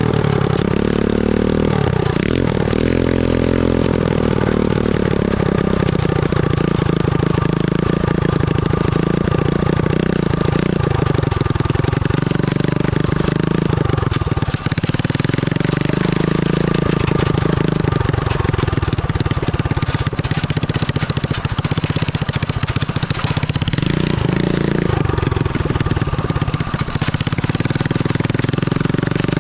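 Homemade go-kart's 250 cc motorcycle engine running continuously, its pitch rising and falling again and again as the throttle is opened and closed.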